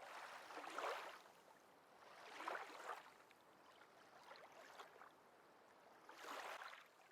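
Faint lake water lapping gently at the shore, soft splashing swells coming about every two seconds.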